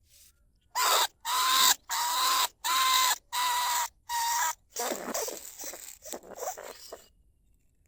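Small bandicoot rat squealing: six loud, harsh squeals of about half a second each in quick succession, then about two seconds of rougher, quieter chattering calls. This is the rat call played to lure bandicoot rats out of their burrows.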